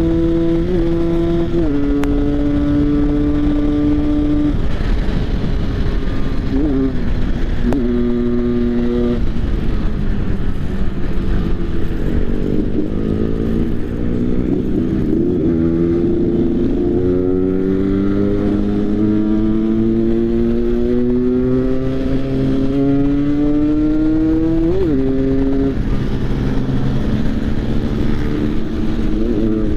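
Motorcycle engine pulling hard on the road, its note climbing steadily as it accelerates and dropping sharply at each of several gear changes. For a few seconds in the middle a second engine's note crosses it.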